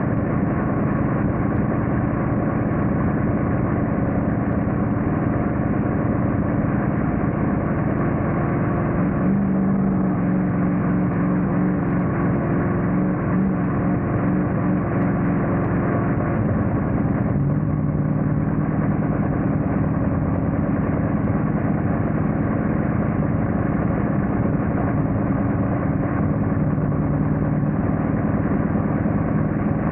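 Monster truck engine running steadily, heard from inside the cab, its pitch shifting about nine seconds in and again a little past halfway.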